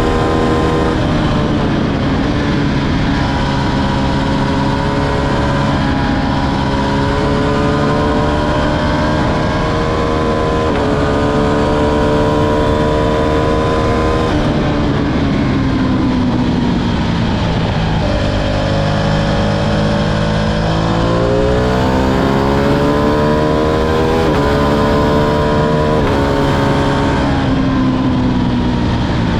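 Ducati Streetfighter V2's 955 cc L-twin engine with the bike under way, revs climbing and dropping sharply at each of several upshifts. About halfway through it rolls off and the revs fall away. It then accelerates hard through more upshifts before easing off again near the end.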